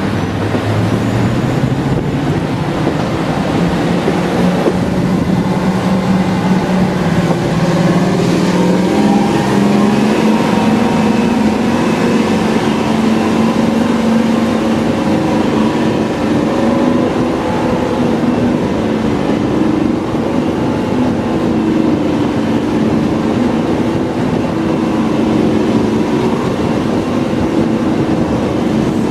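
Diesel train engine running under power, its note climbing steadily for about ten seconds and then holding steady.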